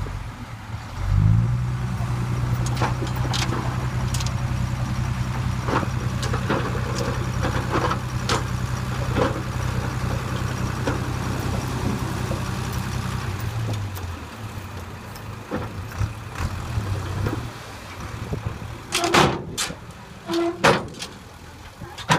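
Heavy diesel engine revving up about a second in and holding a steady raised speed for around twelve seconds, then dropping back to idle. Metal clanks and knocks run throughout, with a few sharper knocks near the end.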